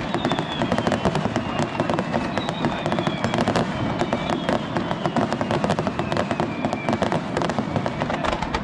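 Fireworks display: a dense, unbroken run of rapid crackling pops, with several thin whistles falling slowly in pitch.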